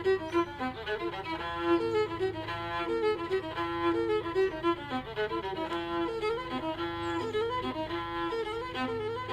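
Fiddle music: a quick tune of short bowed notes over a steady low drone.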